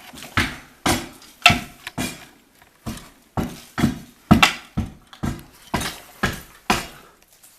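Repeated sharp blows of a hammer or bar on brick and plaster, about fifteen strikes at an uneven pace of roughly two a second, each ringing briefly.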